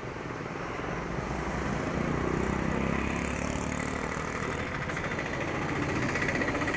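Motor vehicle engine running at idle close by, growing louder about two seconds in, with a thin high electronic tone building toward the end.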